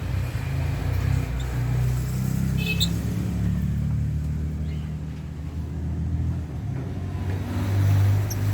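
A motor vehicle's engine running nearby, a steady low rumble that swells louder near the end. A few short lovebird chirps sound over it.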